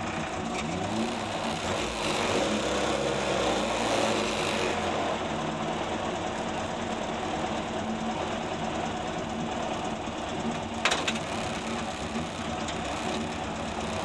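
Ford Escort RS Mk2 rally car's engine idling, heard from inside the cabin, with a brief rise and fall in revs at the start. There is a single sharp click about eleven seconds in.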